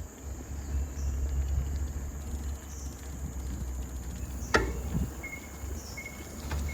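Outdoor ambience: a steady high insect drone over a low wind rumble on the microphone, with one sharp click about four and a half seconds in and a few short high chirps near the end.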